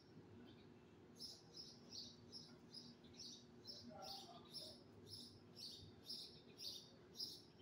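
A bird chirping over and over, short high chirps about three a second, starting about a second in, over a faint steady low hum.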